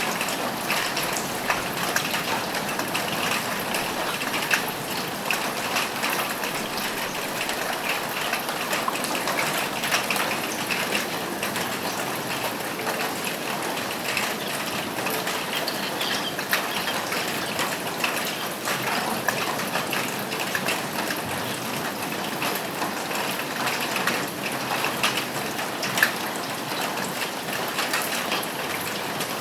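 Steady rain falling on a roof, with many small drops ticking and a couple of sharper, louder drop hits.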